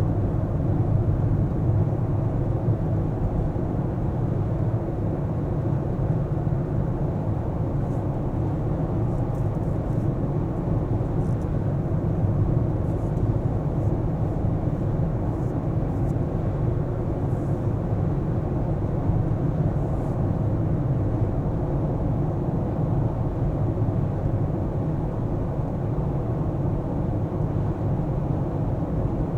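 Steady low rumble of a car on the move, from its engine and its tyres on the road.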